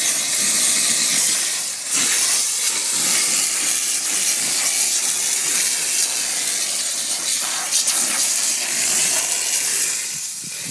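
Steady hissing jet of steam or fine spray from a low-water car-washing sprayer, easing off slightly near the end.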